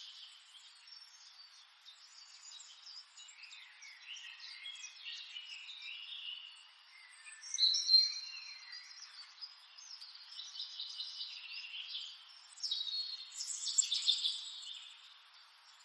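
Several small birds chirping and trilling in overlapping high calls, with a loud burst about eight seconds in and another run of louder calls between about thirteen and fourteen seconds.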